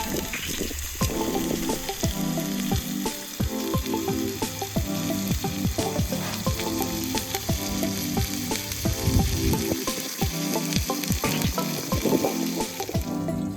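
Food sizzling and frying on a grill, with many sharp crackles and pops, under background music with a repeating melody.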